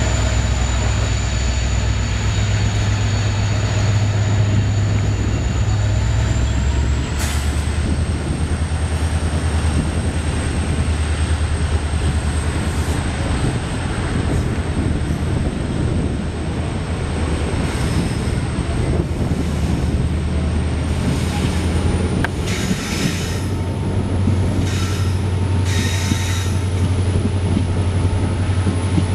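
Passenger train coach running on the rails, heard from an open window: a steady low rumble with a faint high whine, and a run of sharper clatters from the wheels in the last few seconds.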